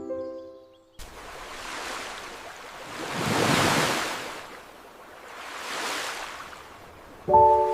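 A rushing, wind-like noise swells up and fades away twice. A clear, glassy ringing tone dies out in the first second, and several ringing tones start again near the end.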